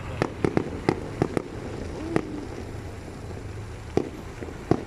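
New Year's fireworks going off at a distance: a run of sharp, irregularly spaced bangs, several close together at the start and more near the end, over a low steady background rumble.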